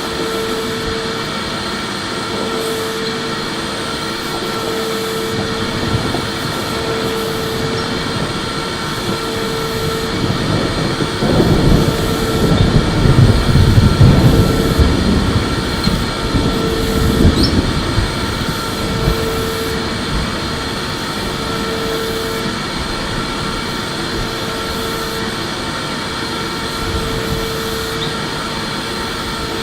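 Electric vacuum cleaner running with a steady whine and a faint tone that pulses about every two seconds. A louder, deeper rumble rises about eleven seconds in and dies back a few seconds later.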